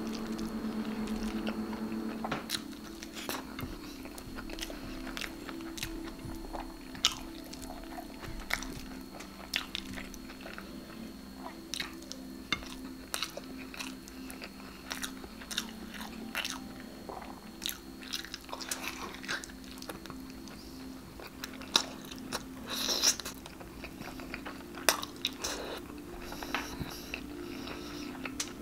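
Close-miked chewing of a hand-fed mouthful of stewed meat and rice, with many short wet mouth smacks and clicks scattered irregularly through the chewing.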